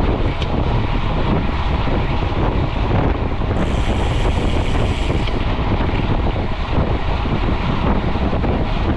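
Loud, steady wind buffeting on a GoPro's microphone as a mountain bike is ridden fast on the road.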